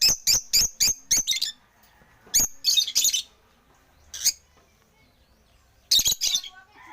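African lovebirds chirping: a fast run of sharp, high-pitched chirps, about six a second, for the first second and a half, then scattered single calls and a brief burst near the end.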